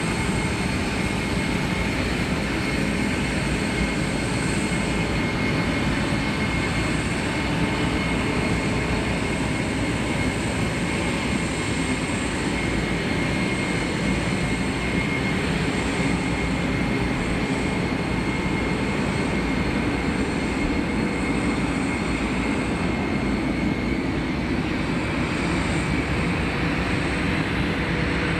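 Boeing 747-400 jet engines running steadily: a constant rushing roar with a steady high turbine whine held over it.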